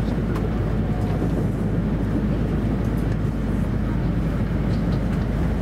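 Steady low rumble of an E2 series Shinkansen running at speed, heard from inside its passenger cabin, with a few faint ticks.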